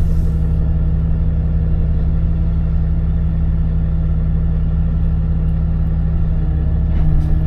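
Tow truck's engine running steadily with a low, even hum.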